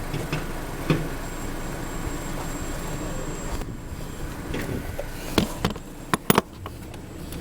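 Steady background noise with a few short, sharp clicks and knocks: one about a second in, then a quick cluster of three or four in the second half, the loudest near the end.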